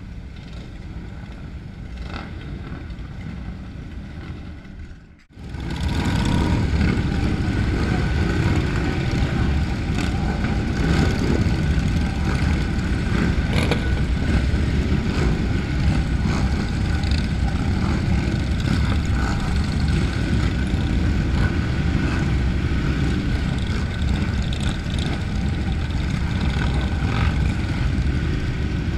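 Motorcycle engines running. The sound is quieter at first, then after a sudden break about five seconds in becomes a loud, steady low rumble for the rest of the sound.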